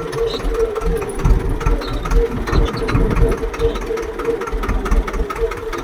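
Swaraj tractor's diesel engine running steadily, with a fast, even beat and a held hum.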